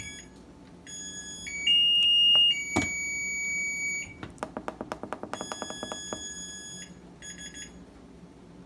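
Maytag Neptune front-loading washer's electronic control panel beeping: long held high tones, then rapid strings of short beeps, with a sharp click about three seconds in. The endless beeping is the sign of a faulty control panel, which the owner is sure is bad.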